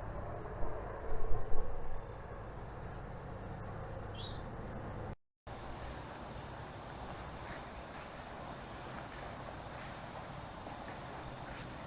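Insects trilling in one steady, high, unbroken tone. A few loud, low thumps come between about half a second and two seconds in. After a brief break at about five seconds, a higher-pitched insect trill carries on.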